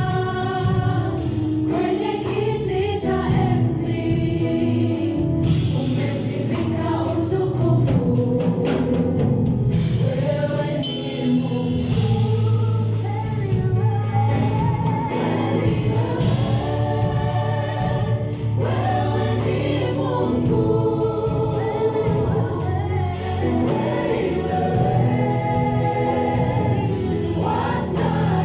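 Gospel choir singing a worship song over live instrumental backing with percussion.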